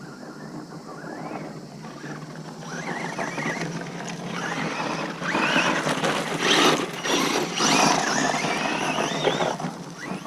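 Traxxas Rustler RC truck's brushless motor whining up and down in pitch as the throttle is worked, over gear noise and tyres scrabbling on loose dirt, loudest from about halfway through.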